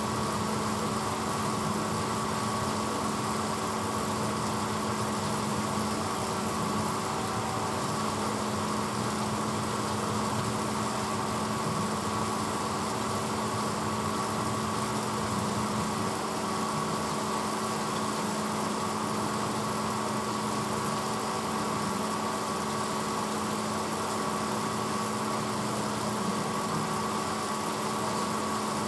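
1986 Hotpoint Potwasher dishwasher running steadily, a constant motor hum with an even wash of noise.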